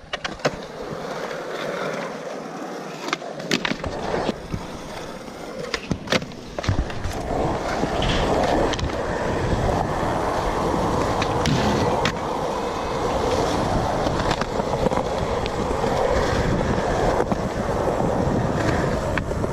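Skateboard wheels rolling over concrete, with a few sharp clacks of the board striking the ground in the first several seconds, then a long stretch of steady rolling.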